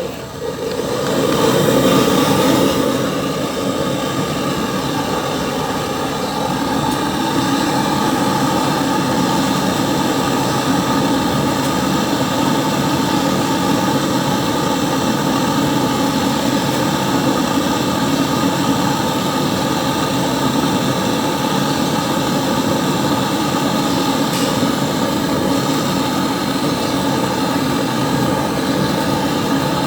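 Gas brazing torch flame burning with a steady rushing roar as refrigerator copper pipe is brazed; it swells about a second in, then holds steady.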